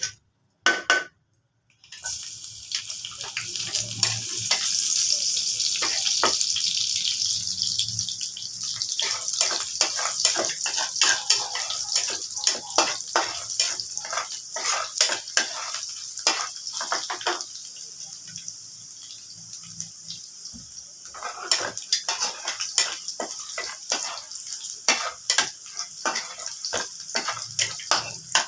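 Water running from a kitchen tap into a sink, starting about two seconds in, with frequent clinks and knocks of dishes and things being handled in the water.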